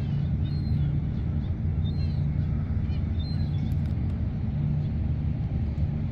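Steady low rumble of an engine running at a constant pace, with a few faint bird chirps now and then.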